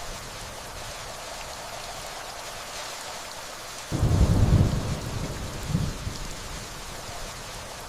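Steady rainfall with a roll of distant thunder that swells suddenly about halfway through and rumbles away over the next couple of seconds.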